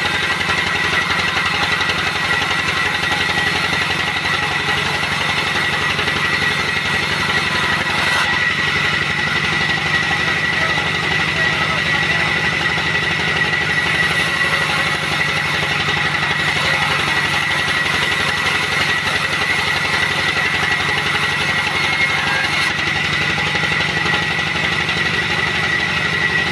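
Sawmill machinery running steadily: an engine-like drone with a constant high whine over it.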